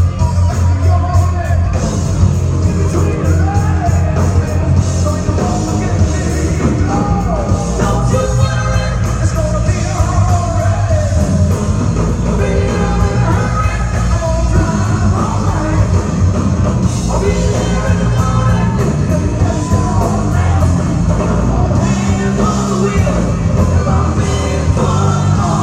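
A rock band playing live with a lead singer, loud and steady throughout, over heavy bass and drums.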